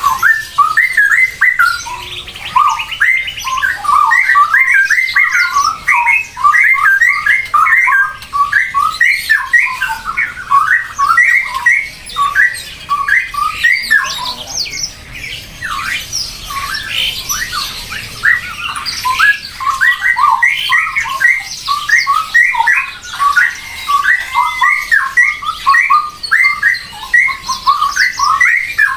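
Many birds calling together, with short calls overlapping in a continuous stream.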